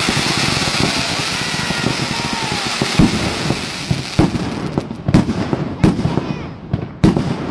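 A 600-shot fireworks cake firing. Dense crackling with faint whistles comes first; from about three seconds in, separate sharp bangs follow at intervals of roughly a second as the barrage thins out.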